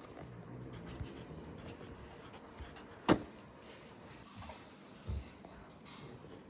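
Soft handling noises while a seed-starting tray is filled with soil, with one sharp click about three seconds in and a couple of small thumps.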